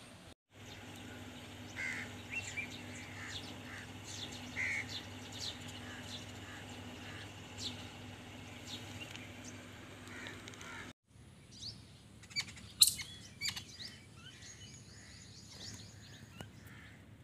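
Small birds chirping, short high calls repeated again and again, over a steady low hum that cuts off abruptly about two-thirds of the way in. A few sharp clicks come among the chirps after that, one of them the loudest sound here.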